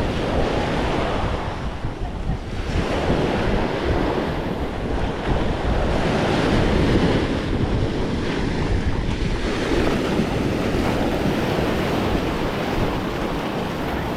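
Ocean surf washing onto the beach, rising and falling in slow swells, with wind buffeting the microphone in a low rumble.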